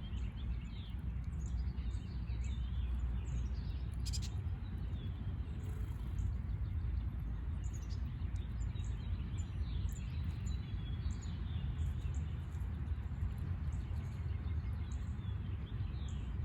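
Small songbirds chirping repeatedly in short high notes, over a steady low rumble.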